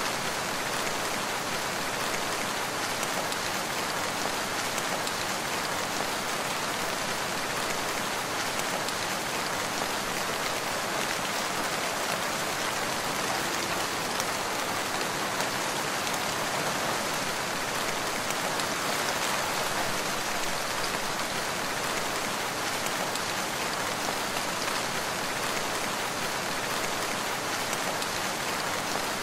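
Steady rain falling, an even, dense hiss of many drops that does not change.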